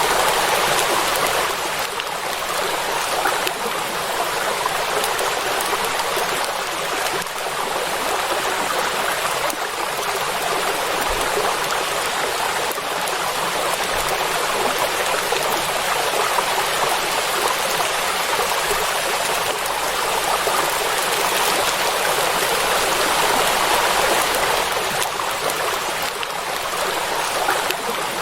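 Steady rain falling on a lake's surface: an even hiss that stays level throughout.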